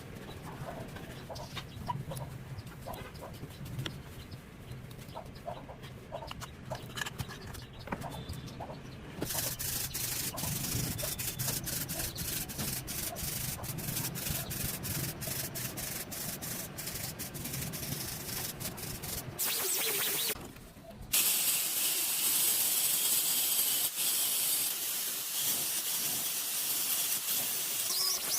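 Rubbing and scraping on a workpiece, with many quick strokes over a steady hiss. After a short break about twenty seconds in, a smoother steady hiss.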